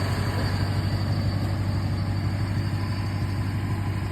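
Car engine running steadily with an even low rumble.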